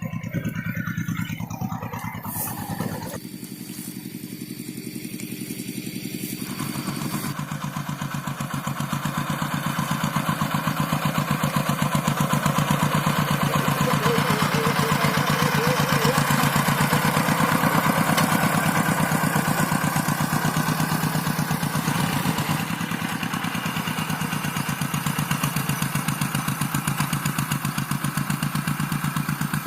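Rice-paddy tractor engine running steadily with a fast even chug. It grows louder over the first several seconds, then eases back a little about two-thirds of the way through.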